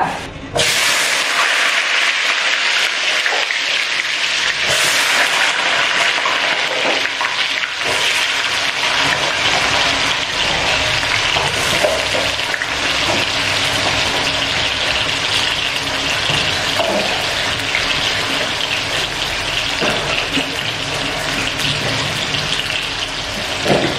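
Diced food dropped into hot oil in a wok, starting with a sudden burst about half a second in, then sizzling steadily with small scattered crackles as it deep-fries.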